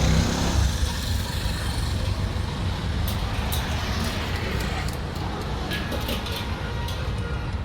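Steady low rumble of a motor-vehicle engine, with scattered light clicks from about three seconds in.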